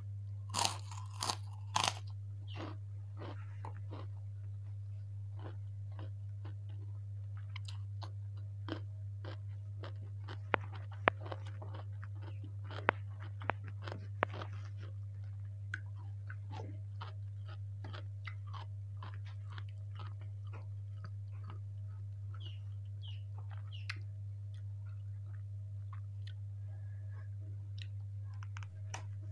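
Close-miked biting and chewing of crisp kerupuk crackers: a few loud crunches in the first two seconds, then softer chewing with scattered sharp crunches and mouth clicks. A steady low hum runs underneath.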